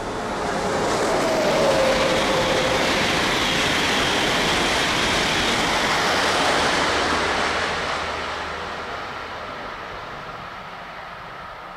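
Intercity passenger train passing at high speed on the new line as it comes out of a tunnel: a rising rush of wheels on rail and air that holds loud for several seconds, then fades away. A short falling tone sounds about a second in.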